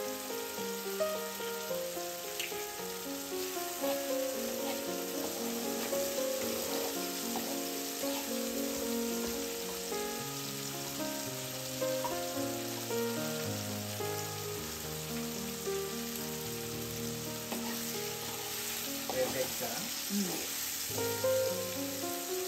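Eggs frying in oil with chopped onion and tomato in a pan, a steady sizzle. Background instrumental music of held, stepping notes plays over it.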